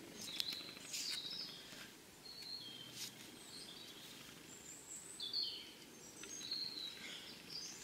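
Small birds chirping faintly in woodland: short, high calls scattered throughout, with a few light clicks in the first few seconds.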